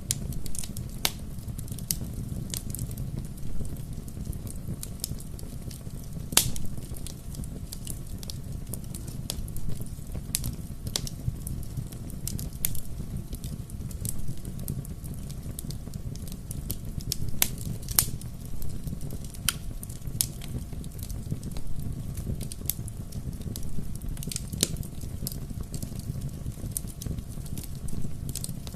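Bonfire crackling: a steady low rumble of burning wood with irregular sharp pops and snaps, a few louder pops about six seconds in and again near eighteen seconds.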